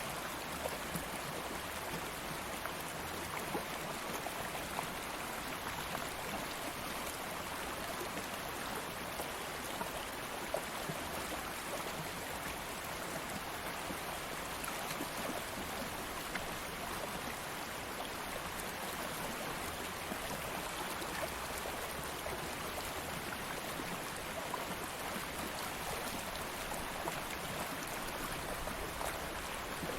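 Stream water flowing steadily over rocks, an even rushing with small splashes and trickles throughout.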